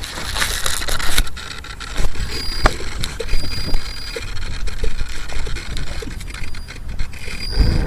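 X5C quadcopter's motors and propellers heard through a small camera strapped to its frame, under heavy low rumble and knocking on the microphone, with brief high whines coming and going.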